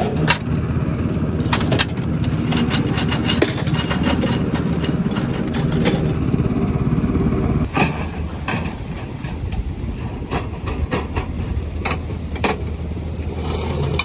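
Engine running steadily with scattered knocks and clicks over it; a little quieter from about eight seconds in.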